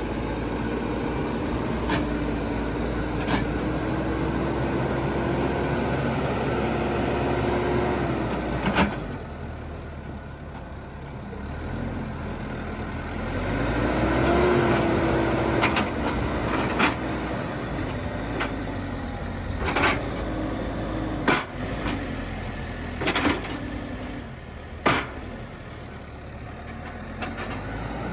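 JCB 215E backhoe loader's diesel engine running, its speed rising and falling, with a string of sharp knocks and clunks through it.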